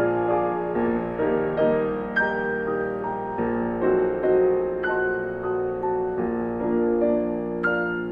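Slow, soft piano music: single notes and chords struck about every half second and left to ring.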